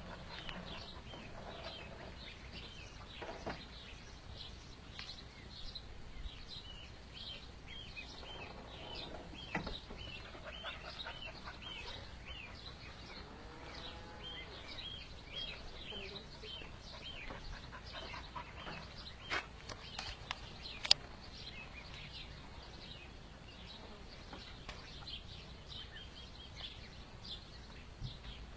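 Duckling peeping over and over, a steady string of short high chirps, with a few sharp clicks about two-thirds of the way through.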